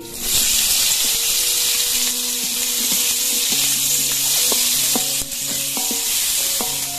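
Chopped chillies, shallots, tomato and shrimp paste sizzling loudly in hot oil in a wok, stirred with a metal spatula. The sizzle starts suddenly as the ingredients go into the oil, then holds steady.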